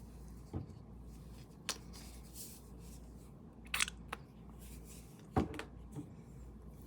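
Low steady room hum with four brief, scattered clicks and taps from handling paint and brushes while painting.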